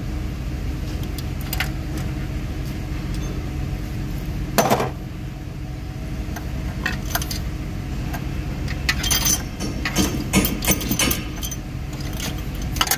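Metal tools and engine parts clinking and clattering, with one heavier knock about five seconds in and a run of sharp clinks in the second half, over a steady low hum.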